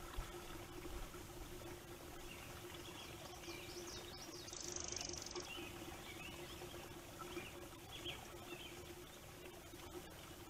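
Faint wetland ambience: distant birds chirping now and then over a low, steady hum and light outdoor noise.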